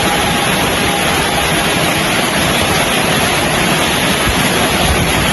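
Steady, loud rushing of heavy rain falling.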